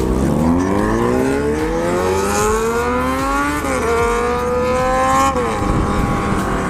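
Motorcycle engine accelerating hard. It revs up, shifts up about three and a half seconds in, revs up again, then eases off the throttle near the end, over a steady low road-and-wind rumble.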